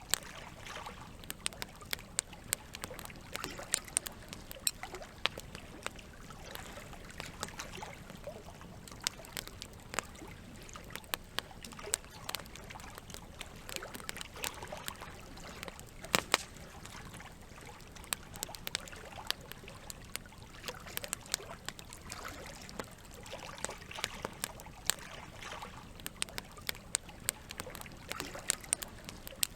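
Campfire crackling, with frequent irregular sharp pops and snaps, over a steady trickle of running water.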